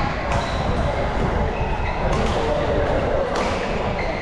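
Heavy rain, a loud steady hiss and drumming, with three sharp hits of badminton rackets on the shuttlecock during a rally.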